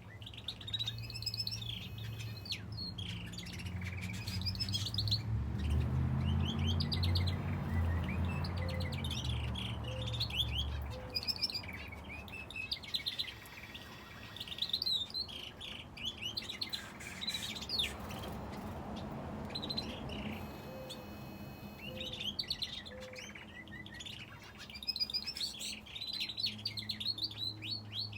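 Aviary finches and a canary chirping and calling continuously in many quick, high chirps and short trills. A low rumble runs under them through the first ten seconds or so and comes back near the end.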